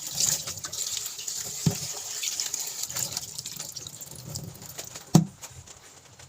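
Water running from a tap and splashing in a sink, with a few clicks and two knocks, the louder one about five seconds in. The water thins out near the end.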